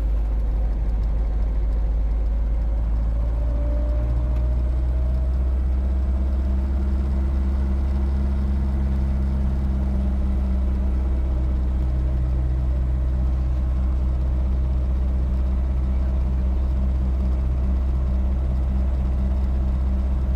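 Robinson R22 helicopter's engine and rotor running, a steady loud drone with a deep hum. A few seconds in, a pitched tone rises slightly and the engine tones grow stronger, then hold steady.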